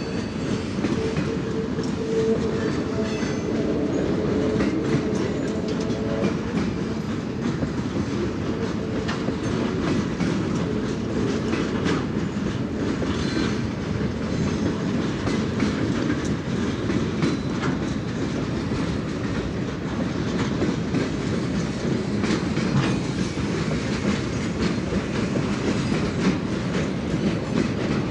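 Loaded freight flatcars rolling past at a steady speed: steel wheels rumbling on the rails, with a constant run of clicks and clanks from the rail joints and couplings. A thin wheel squeal sounds over the first several seconds.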